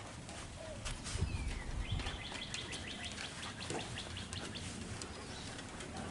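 Birds calling: a low cooing, then a run of rapid, even chirps lasting about a second and a half around the middle. Two dull low thumps come at about one and two seconds in.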